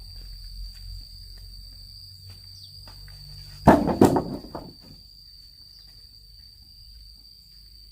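Crickets trilling steadily at a high pitch. About halfway through comes a loud clatter of several quick knocks that lasts about a second, as something hard is dropped or tossed down.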